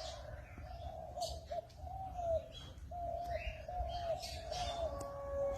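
A dove cooing in a low, continuous warbling run of repeated notes, with scattered short, higher chirps from other birds.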